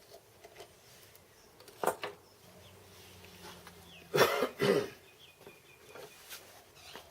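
A man coughs twice in quick succession about four seconds in, after a couple of light clicks from small parts being handled.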